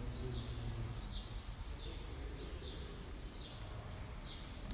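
A small bird chirping repeatedly: short falling chirps, often in pairs, about once a second, over a steady low hum of room noise.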